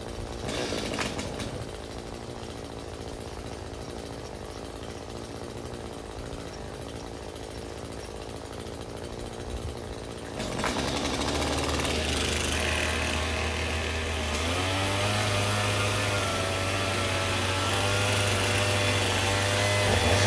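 Small two-stroke engine running steadily. It gets louder about ten seconds in, when a deeper steady tone joins it.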